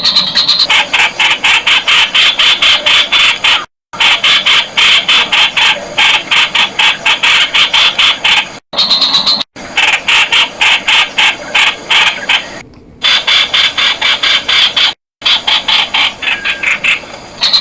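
Streak-eared Bulbul calling: a loud, fast run of sharp repeated notes, about four to five a second, broken several times by short, sudden gaps.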